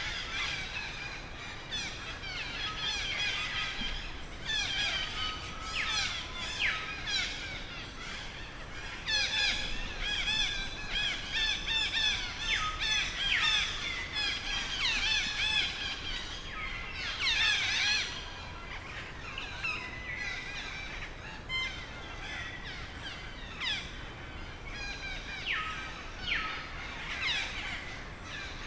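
A dense chorus of high-pitched animal calls, squawks and chirps overlapping continuously, busiest in the middle stretch.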